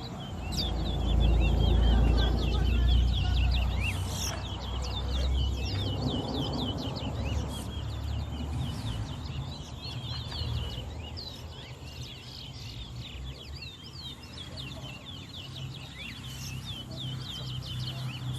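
Towa-towa seed finches singing in a bird race: a steady stream of quick, high chirps and twitters, their counted songs being what decides the race. A loud low rumble underlies the first few seconds.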